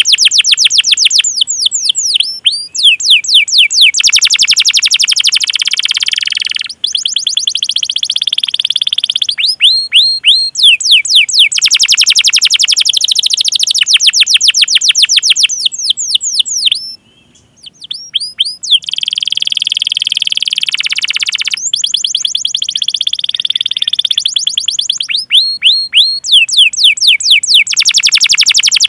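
Domestic canary singing: long rolling trills of rapid repeated notes alternating with runs of sharp falling chirps, with one short break a little past halfway.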